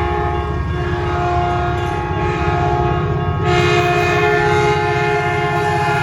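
Caltrain locomotive horn sounding a long, steady chord over the low rumble of the passing train, the chord shifting about halfway through.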